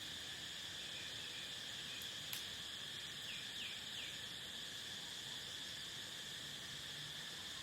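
Steady chorus of crickets, a continuous high-pitched trill. A bird gives three short falling chirps about three and a half seconds in, and there is a single sharp click just after two seconds.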